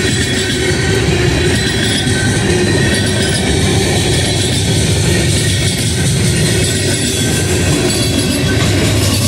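Manifest freight train's tank cars and covered hoppers rolling past close by: a loud, steady rumble of steel wheels on rail. Faint high-pitched steady tones of wheel squeal ride over it.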